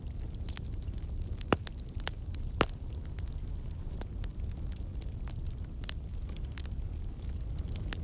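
Wood fire in a fireplace crackling, with a steady low rumble of the flames and scattered sharp pops, the two loudest about a second apart in the first third.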